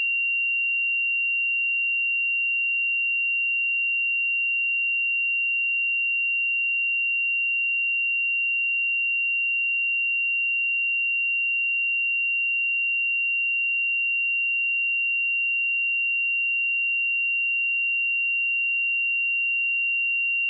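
A pure 2761 Hz sine-wave test tone, held steady at one pitch and level, with no harmonics or other sound.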